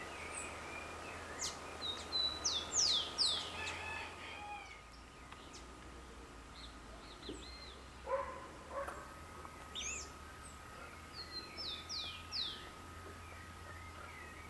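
Wild birds calling outdoors: two bursts of quick, high, downward-sliding calls, one near the start and one near the end, with scattered shorter chirps between. A faint steady high tone runs underneath and drops out for a few seconds in the middle.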